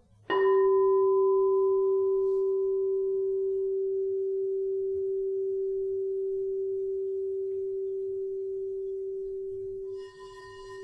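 Crystal singing bowl for the throat chakra, struck once and left ringing on one steady, slowly fading tone, its higher overtones dying away within a few seconds. Near the end it is sounded again, bringing its overtones back.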